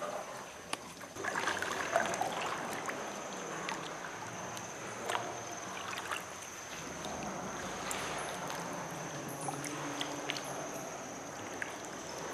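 Water splashing and trickling around a sea canoe, with irregular small drips and splashes, as from a paddle dipping in the water.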